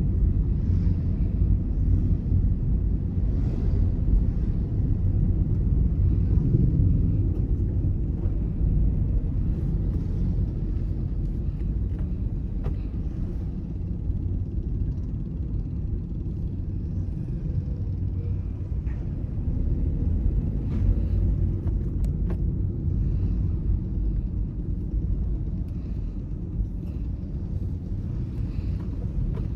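Car being driven: steady low rumble of engine and tyre/road noise, swelling and easing slightly with a few faint ticks.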